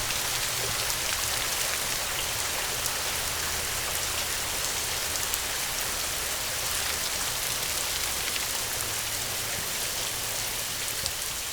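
Steady rain falling, an even hiss of drops with scattered sharper drop ticks, beginning to fade out near the end.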